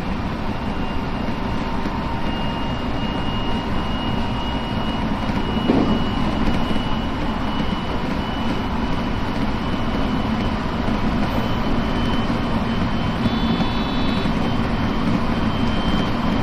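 JR West 223 series electric train running at speed, heard from the driver's cab: a steady rumble of wheels on rail with a thin, steady high whine over it. There is a single knock about six seconds in.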